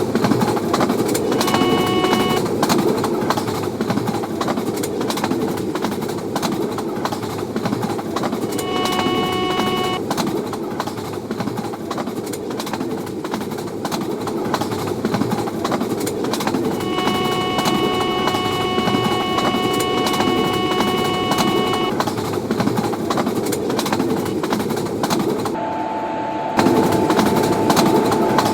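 Train running past at speed with a continuous loud rumble and rattle of wheels on rails. A steady multi-note horn sounds three times: two short blasts, then a long one of about five seconds. About two seconds before the end the sound changes abruptly, as at an edit.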